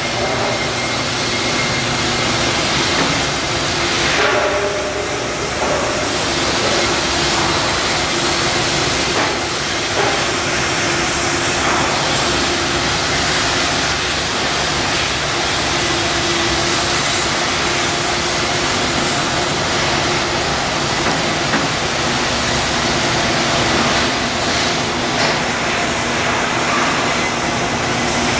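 Steady industrial machinery noise: an even, loud hiss with a low steady hum underneath.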